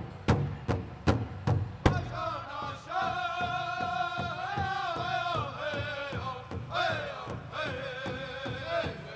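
Powwow drum group: singers strike a big drum together in a steady beat of about three strokes a second. About two seconds in, the singers join with high-pitched singing over the continuing beat.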